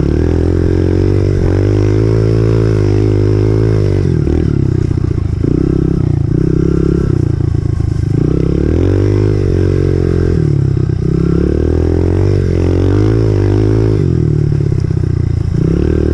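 Honda CRF125F's single-cylinder four-stroke dirt bike engine running under way, its revs rising and falling again and again as it is ridden.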